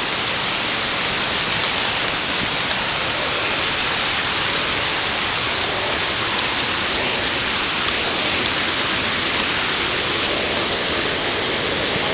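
Waterfall close by: falling water rushes with a steady, even roar that holds at one level.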